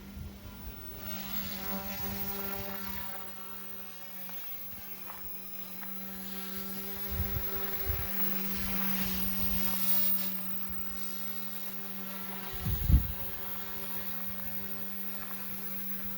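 OMP M1 micro electric RC helicopter in flight, its rotors and motor making a steady whine that swells and eases as it moves. A few low thumps, the loudest about 13 seconds in.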